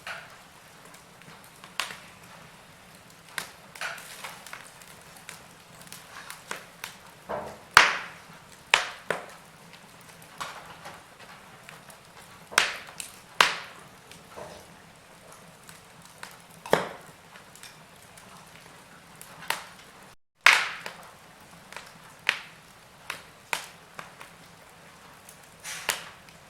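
Wood fire in a fireplace crackling: irregular sharp pops and snaps, a few much louder than the rest, over a soft steady hiss. The sound cuts out completely for a split second about twenty seconds in.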